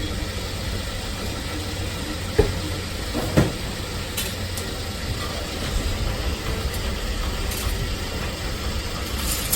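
Steady low rumble like a vehicle engine or traffic, with two short knocks about two and a half and three and a half seconds in.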